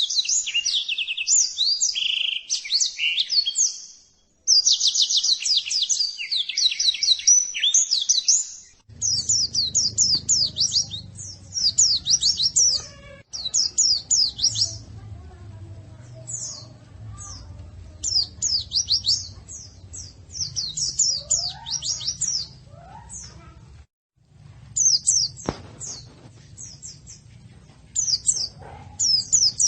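White-eye (pleci) song played as a training recording: rapid, high-pitched twittering phrases in dense bursts. The recording breaks off abruptly a few times, and after about nine seconds a low hum runs underneath.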